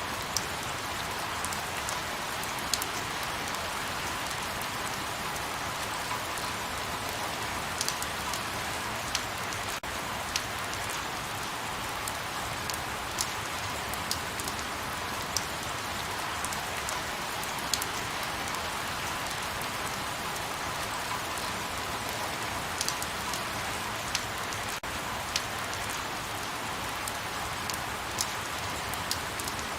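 Light rain falling steadily, a continuous soft hiss with distinct individual drops ticking sharply every second or so.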